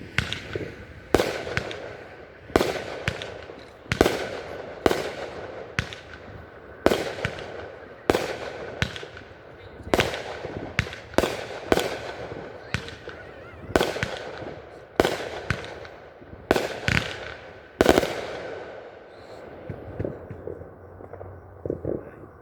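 Fireworks bursting one after another, about one sharp bang a second, each trailing off in an echo. After about eighteen seconds the bursts stop and only a few small pops follow near the end.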